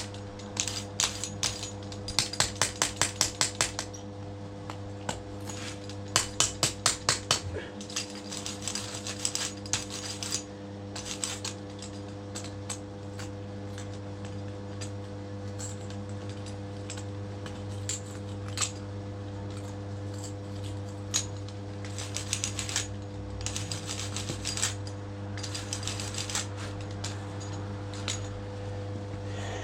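Bursts of quick tapping strikes, about seven a second, near the start and again about two and six seconds in, then scattered lighter clicks and knocks, over a steady low hum.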